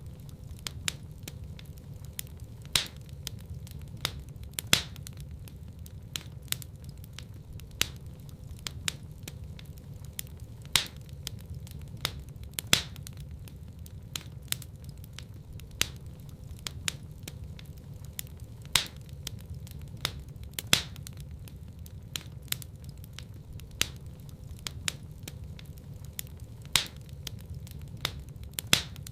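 Wood fire burning in a fireplace: sharp, irregular crackles and pops, a few a second, some much louder than others, over a low steady rumble of flame.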